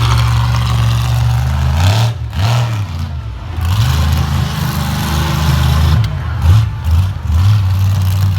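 Monster truck engine running loud, its revs dropping and climbing again several times in quick blips.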